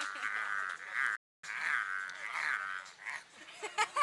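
A group of voices singing loudly together, many wavering pitches overlapping into a buzzing chorus. It cuts out for an instant just after a second in, and a few sharp clicks come near the end.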